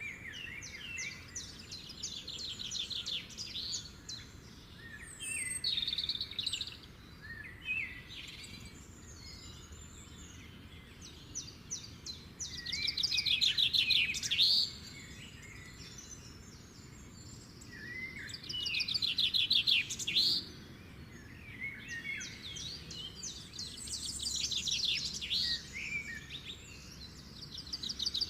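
Birds singing in repeated phrases of rapid trills and chirps, with the loudest phrases about halfway through and again a little later, over a faint steady background hiss.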